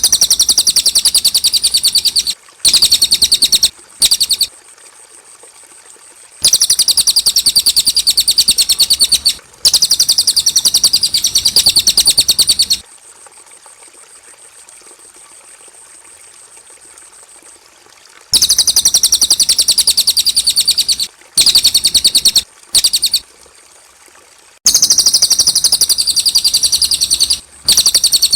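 Cililin songbird singing long phrases of rapid, high, repeated notes, each run lasting one to three seconds. The runs are broken by short pauses and by two longer silences, one a few seconds in and one near the middle. This is a clean training recording ('masteran') of the cililin's song, meant for young birds to copy.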